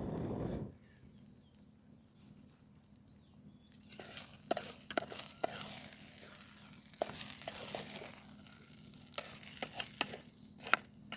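An insect chirping in a steady, fast pulse of high clicks. From about four seconds in, scattered clicks and knocks come over a soft hiss.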